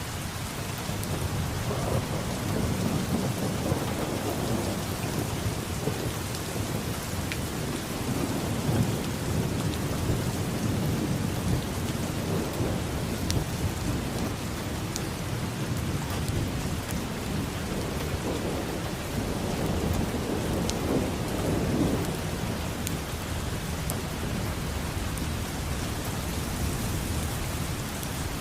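Steady rain falling, with thunder rolling low underneath. The rumble swells a couple of seconds in, lingers, and swells again near the end.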